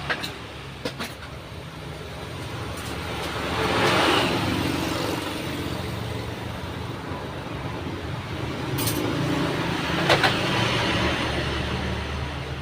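Road traffic passing: a steady low rumble with two vehicles swelling past and fading, and a few sharp clicks or knocks in between.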